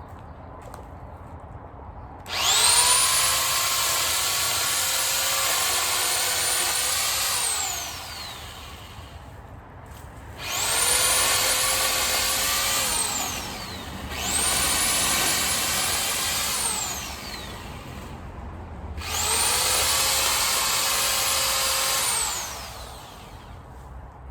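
Chainsaw run in four bursts while trimming tree branches. Each time it spins up to a high whine, holds for a few seconds, then winds down.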